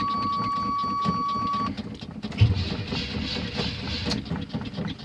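Cold start of a 1984 Chevrolet C10's 305 V8. A steady warning buzzer sounds over the starter cranking and cuts off a little under two seconds in. About half a second later comes a low thump as the engine catches and runs.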